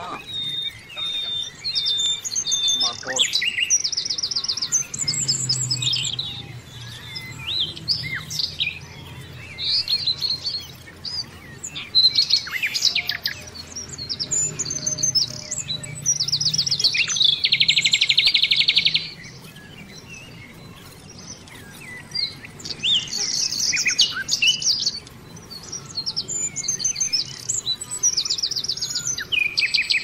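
Small birds chirping and twittering, with repeated fast rattling trills; the longest trill, about a second and a half, comes a little past the middle.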